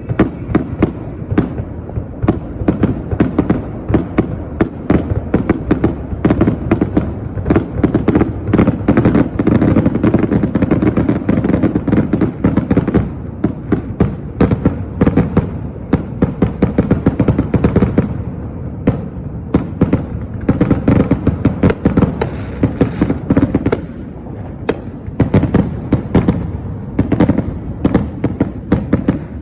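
Fireworks going off in a dense, continuous barrage of sharp bangs and crackles, many per second, with no let-up.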